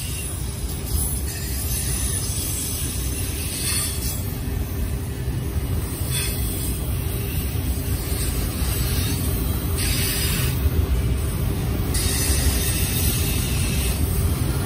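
Freight train of autorack cars rolling past, its wheels on the rails making a steady low rumble with a few brief patches of higher hiss.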